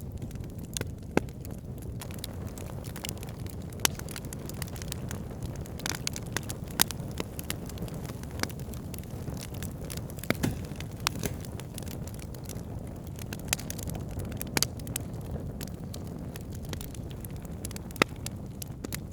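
Wood campfire burning: irregular sharp crackles and pops, a few of them louder snaps, over a steady low rush.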